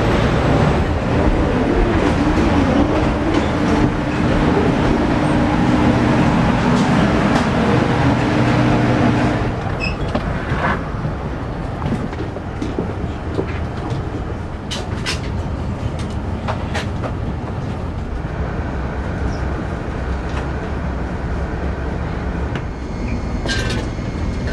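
Steady vehicle running noise with a low hum. The hum drops away about ten seconds in, leaving a quieter rumble with scattered clicks.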